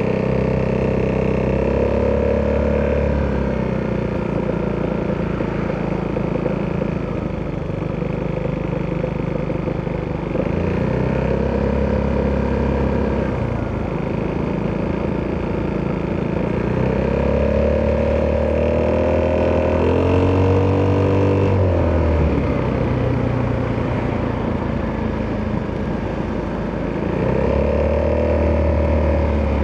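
Italjet Dragster 200 Malossi Edition's single-cylinder four-stroke engine through an Akrapovic exhaust, ridden in traffic. The exhaust note climbs under throttle four times and falls back between pulls, with one sharp drop off the throttle a little past twenty seconds in.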